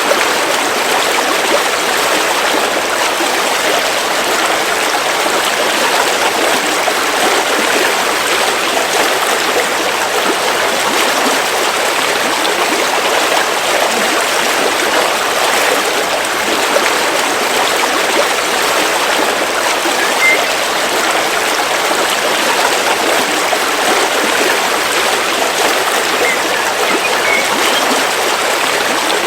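River water flowing steadily over rocks, a continuous even rush.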